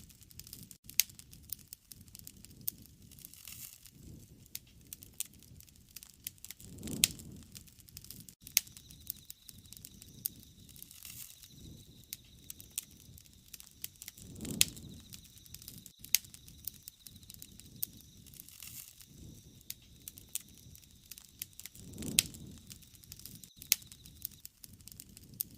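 Wood campfire crackling, with frequent sharp pops and snaps and a soft whoosh of burning that swells about every seven to eight seconds. A faint steady high tone runs through the middle.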